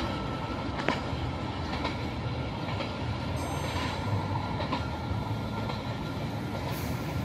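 Vietnam Railways SE7 passenger train running on the line: a steady low rumble with a few faint clicks.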